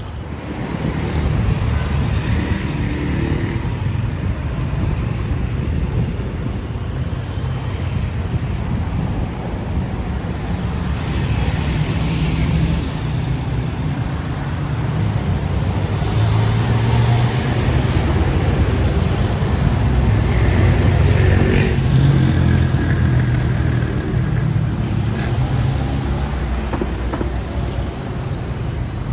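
Road traffic on a city street: motor vehicles running and passing over a steady low rumble, with louder passes about twelve seconds in and again around twenty-one seconds.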